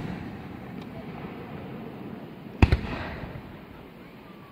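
Aerial fireworks shell bursting with a loud bang about two and a half seconds in, a quick second crack right after it, and a rolling echo that fades away. The echo of an earlier burst is dying away at the start.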